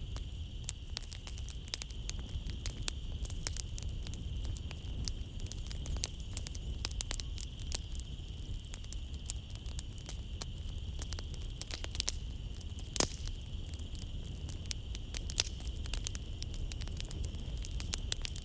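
Wood fire crackling in a fireplace, with irregular snaps and pops and one sharper pop about 13 seconds in, over a low rumble. Under it runs a steady high chirring of night insects.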